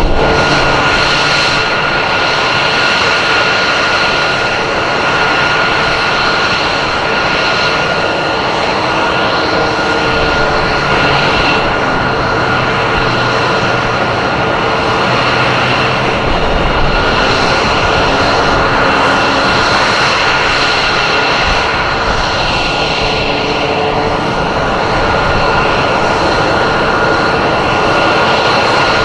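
Aircraft engine noise, loud and steady, with a constant high whine held through it.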